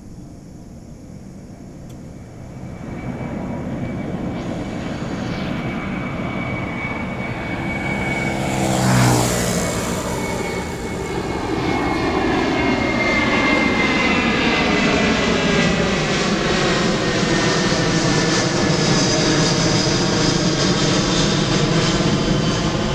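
Airbus A330 twin jet engines at takeoff thrust: a roar that builds over the first few seconds, swells briefly about nine seconds in, then holds loud with a steady high whine and a sweeping, phasing tone as the airliner passes and climbs away.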